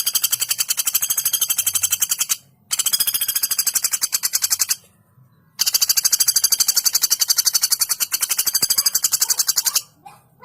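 Female common flameback woodpecker (pelatuk bawang) giving long rattling calls of rapid, evenly spaced notes, three runs of a few seconds each with short breaks between.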